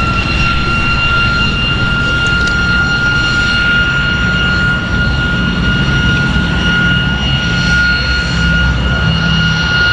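Boeing B-17 Flying Fortress's four Wright R-1820 Cyclone radial piston engines running loud and steady, a deep pulsing drone with a steady high-pitched whine over it.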